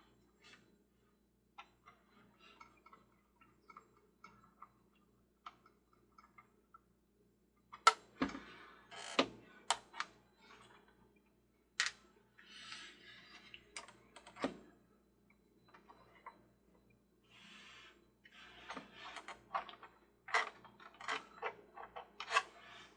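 Irregular clicks and knocks of hard plastic toy parts and small screws being handled and fitted together during reassembly, with louder knocks about eight to ten seconds in, again around twelve and fourteen seconds, and a busy run near the end.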